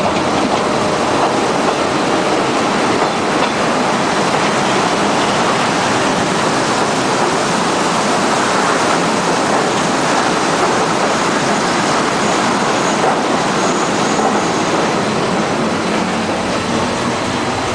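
Rack railway train running steadily along the track, heard from inside the driver's cab: a continuous, even noise of the running gear on the rails.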